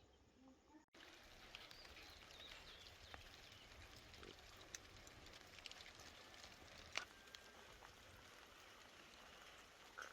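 Faint light rain: a steady soft hiss with scattered drips, and a few faint high bird chirps. One sharp tick about seven seconds in.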